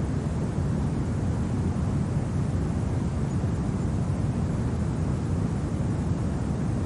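Steady low rumble of winter wind, even in level, with no gusts, clicks or crackles standing out.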